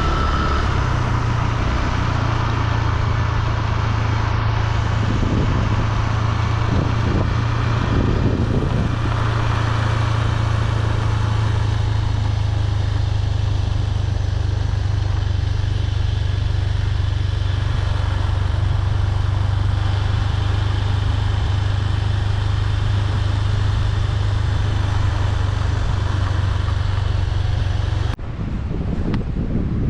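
A motor vehicle on the move: a steady low engine drone with road and wind noise. It cuts off abruptly near the end.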